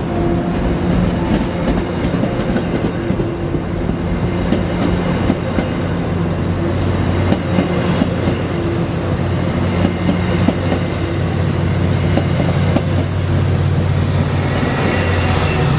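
Diesel-hauled train passing: a steady engine drone with the wheels clacking over the rail joints.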